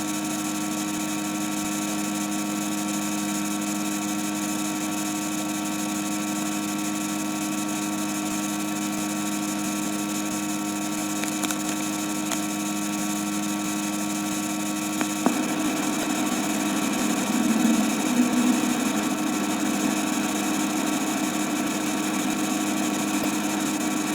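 Steady electrical hum with a layer of hiss, made of several constant tones. About fifteen seconds in there is a click, and the hum turns rougher and noisier.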